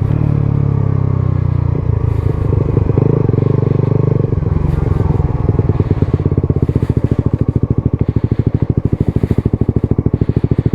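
Suzuki GSX-S 125's single-cylinder four-stroke engine through a Mivv GP Pro exhaust, its revs falling over the first few seconds and then settling into an idle with a loud, even pulsing beat.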